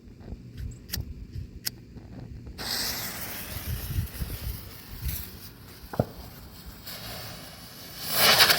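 Color smoke chopper firework: a few light clicks, then a steady hiss starting about two and a half seconds in that grows much louder near the end as the chopper fires.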